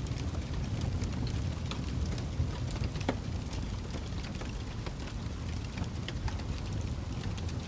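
Wood fire burning in a fireplace: a steady low rumble with frequent small crackles and pops, one sharper crack about three seconds in.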